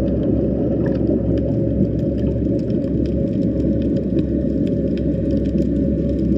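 Underwater sea ambience: a loud, steady low drone with faint scattered ticks above it.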